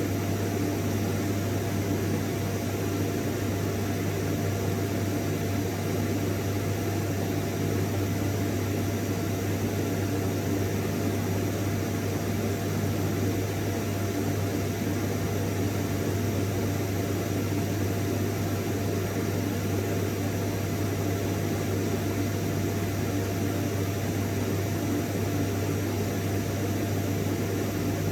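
Vacuum cleaner running steadily: a constant low motor hum under an even rush of air, with a faint steady whine.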